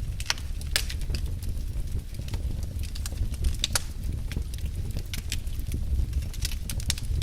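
Firewood burning in a fireplace, crackling with irregular sharp pops, several a second, over a low steady rumble of the flames.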